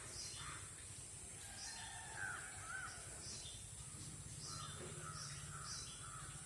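Birds calling faintly: a scattered series of short, harsh calls with a few brief up-and-down chirps in between.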